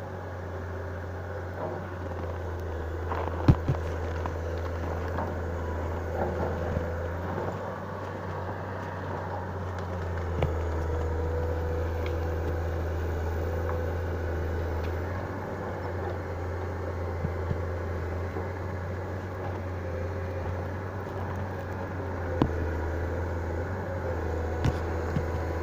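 A vehicle engine running steadily with a low drone, and scattered sharp knocks and clicks over it.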